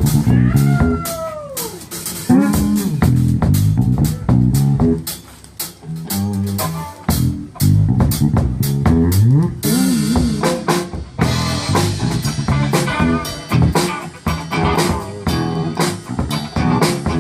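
Blues band playing an instrumental passage on guitar, bass guitar and drum kit, with bent guitar notes in the first couple of seconds and a cymbal crash about ten seconds in.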